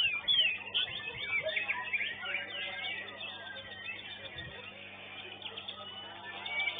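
Many caged songbirds singing at once: a dense, overlapping chorus of quick chirps and sliding whistled notes, loudest near the start. A steady electrical hum runs underneath.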